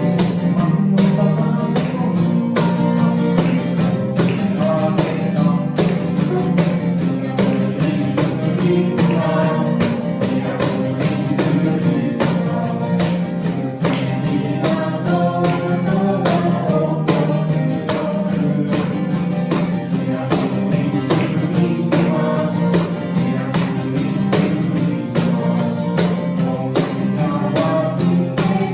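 Live band music: an acoustic guitar strumming a steady beat, with singing over it.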